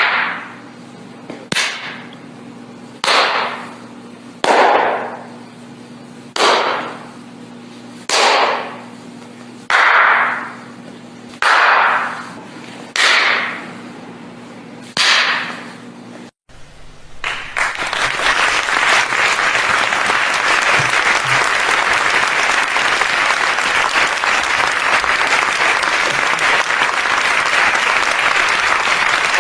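Pistol shots fired singly, about ten in all, one every second and a half or so, each with a ringing tail. After an abrupt cut a little past halfway, steady applause takes over.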